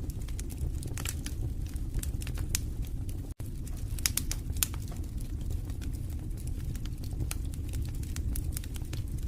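Wood fire burning in a fireplace: a steady low rumble of flames with frequent sharp crackles and pops, a few louder pops about four seconds in. The sound drops out for an instant about three and a half seconds in.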